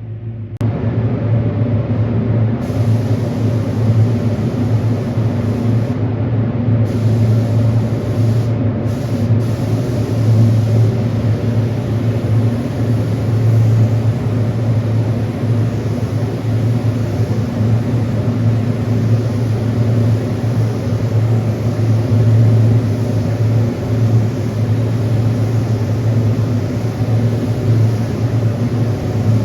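Spray painting with an air-fed paint gun: a steady motor hum with a continuous hiss of spraying air on top, starting suddenly about half a second in. The hiss breaks briefly a couple of times in the first ten seconds, where the trigger is let off between passes.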